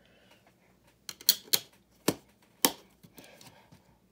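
Plastic LEGO pieces clicking as tiles are handled and pressed onto the build: a quick run of about five sharp clicks starting about a second in.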